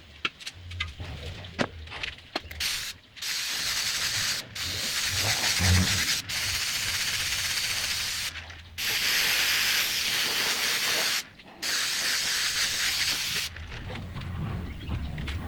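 Compressed-air paint spray gun spraying in long hissing passes of a few seconds each, broken by short pauses where the trigger is released. The spraying stops about three-quarters of the way through. A few clicks come before it starts.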